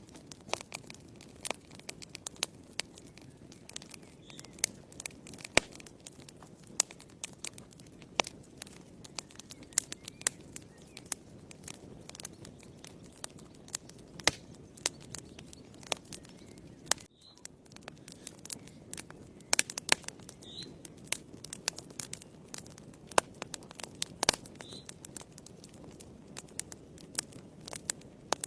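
Wood fire in a fireplace crackling, with irregular sharp pops over a low steady rush of flames. The sound briefly drops away about seventeen seconds in.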